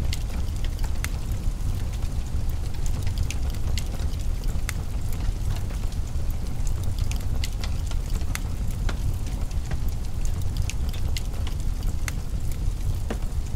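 Wood fire crackling in a fireplace: irregular sharp snaps and pops, a few a second, over a steady low rumble.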